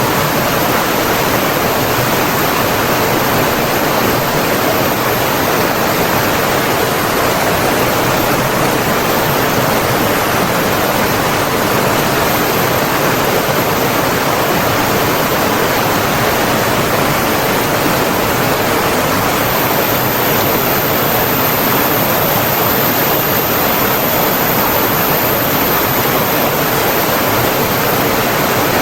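Running water rushing steadily, as from a stream or waterfall, an even unbroken rush with no change in level.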